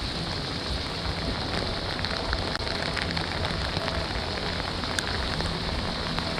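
Steady heavy rain falling, with many small drop ticks and one sharper tick about five seconds in.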